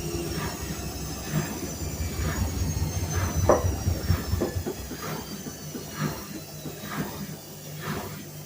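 Whirlpool washing machine winding down from a spin. Its motor whine falls slowly in pitch, and the low rumble dies away about halfway through. A knock sounds roughly once a second as the drum slows.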